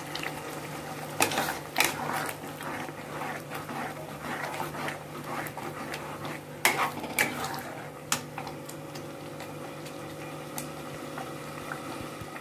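Thick poppy-seed paste bubbling as it fries in a kadhai. A metal spatula scrapes and knocks against the pan a few times, in two clusters about a second in and again around seven seconds in.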